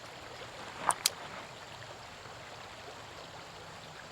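Creek water flowing steadily, with two brief sharp sounds close together about a second in.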